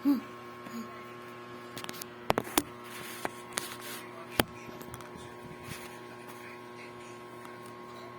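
A person eating an ice cream bar close to the microphone: a short hummed voice sound at the start, then a few sharp mouth clicks about two and four and a half seconds in. A steady electrical hum runs underneath.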